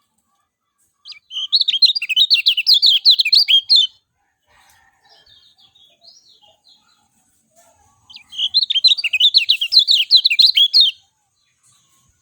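Kecial kuning (a yellow white-eye) singing two fast, chattering bursts of song, each about three seconds long, with a few faint scattered chirps in between.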